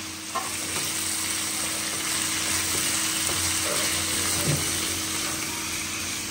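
Par-boiled potato cubes sizzling steadily in a little hot oil in a frying pan, stirred now and then with a wooden spatula.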